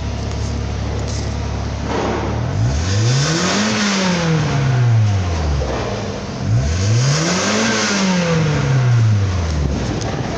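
Mazda B6 1.6-litre four-cylinder engine of a Eunos Roadster idling, then revved up and back down twice, each rev a smooth rise and fall lasting about three seconds.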